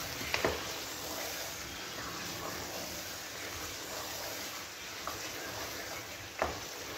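Chicken, spice masala and crushed onion sizzling steadily in oil as the korma is fried. A few sharp clicks of the spoon against the pot come as it is stirred.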